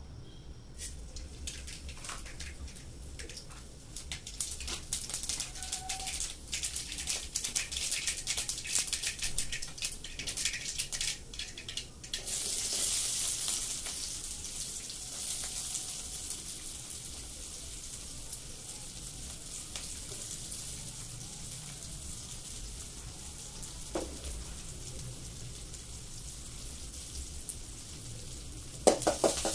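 Oil heating in an aluminium kadai, crackling and spitting. About twelve seconds in, chopped onions go in and it turns to a steady, louder sizzle. Right at the end a spatula starts scraping and stirring.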